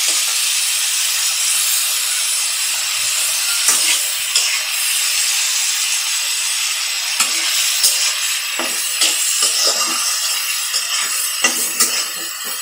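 Radish and radish stalks sizzling in oil in a kadai, a steady hiss, while a spatula stirs them, scraping and knocking against the pan, more often in the second half.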